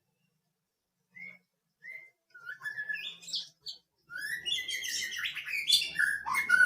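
A bird chirping and twittering: two short single chirps, then a quick run of rising and falling chirps that grows denser and louder from about four seconds in.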